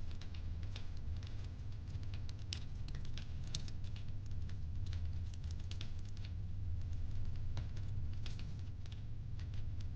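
Fireplace crackling: irregular snaps and pops of burning wood, several a second, over a steady low rumble.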